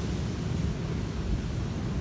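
Sea surf washing on a beach in a lull between breaking waves, with wind rumbling on the microphone.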